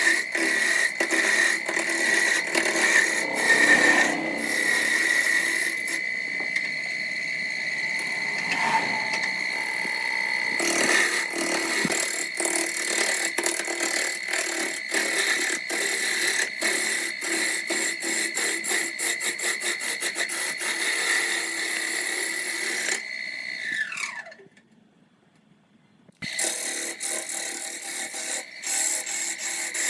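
Electric power tool running on wood: a steady high motor whine with rapid clicking. Near the end it is switched off and the whine falls in pitch as it spins down, there are about two seconds of near silence, and then it runs again.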